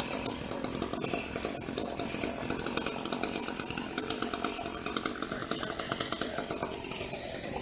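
Chainsaw running steadily, with a fast, even engine buzz.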